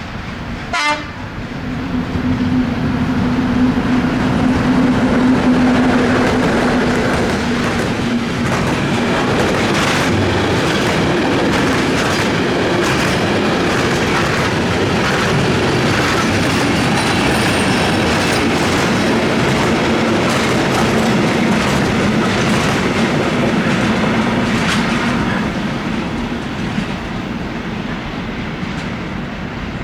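Freight train wagons rolling past on jointed track, a steady rumble with repeated clickety-clack knocks as the wheels cross the rail joints. The sound eases off a few seconds before the end.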